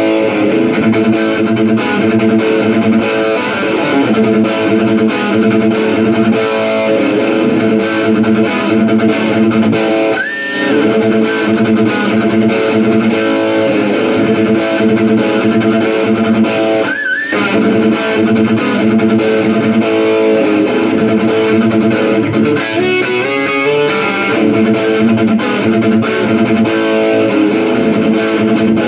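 Distorted electric guitar played through a Marshall Valvestate VS30R amp, using a Gibson Custom's bridge 'Dirty Finger' pickup. It plays steady picked riffs with two high string bends held with vibrato midway, then a quick run of notes.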